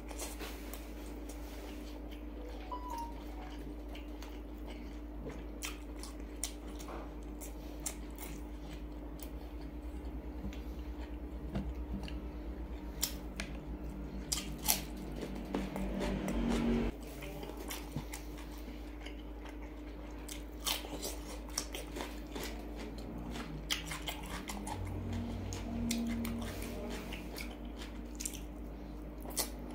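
Close-up eating sounds: biting and chewing grilled pork sausage and crunching cucumber, with many short wet mouth clicks scattered throughout, over a steady low hum.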